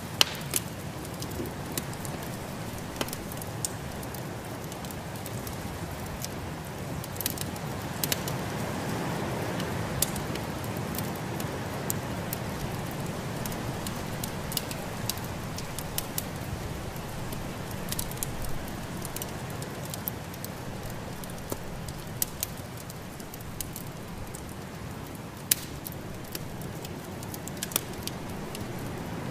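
Wood fire crackling in a fireplace, with irregular sharp pops and snaps over a steady rushing noise that swells slightly about eight to twelve seconds in.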